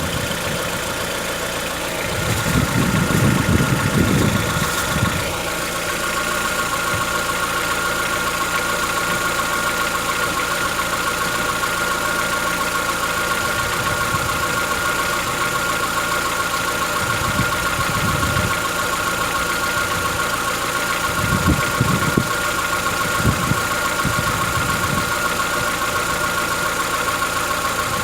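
Chevrolet Onix 1.4 four-cylinder engine idling with a diesel-like knocking, which the owner takes for a tappet knock that shows after a cold start; the dealer calls it characteristic of the engine. A few louder low rumbles come and go, the strongest a few seconds in.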